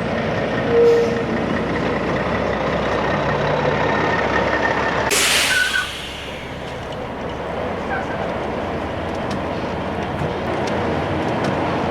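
Heavy truck engine running steadily. About five seconds in there is a short, loud hiss of escaping air, typical of a truck's air brakes releasing, and a brief squeak comes about a second in.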